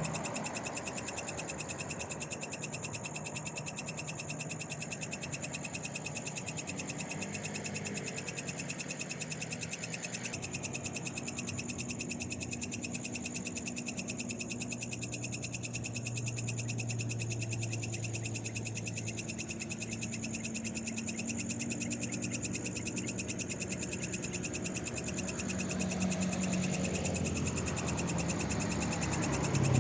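Night chorus of frogs and insects: steady, fast pulsing trills. A low engine hum from road traffic comes and goes under it and swells near the end.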